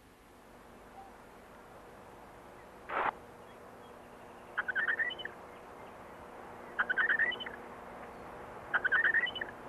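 Birdsong: a bird sings three short phrases of rapid chirps, about two seconds apart. A single short burst of rushing noise comes about three seconds in, and a faint steady hum runs underneath.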